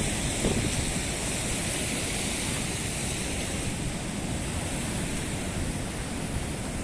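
Steady rush of a rain and wind storm, with a high hiss over a low rumble of wind on the microphone.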